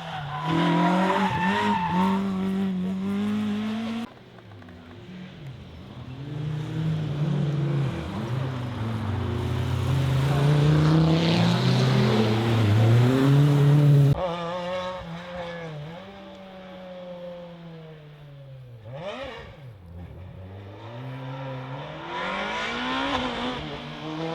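Rally car engines revving hard and changing gear on a stage, in several short cuts. One car's note builds in level over ten seconds, and later a car passes close by with the pitch dropping as it goes.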